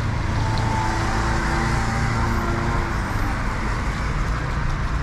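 Street traffic: a motor vehicle's engine hum rises and passes close by over steady road noise during the first three seconds.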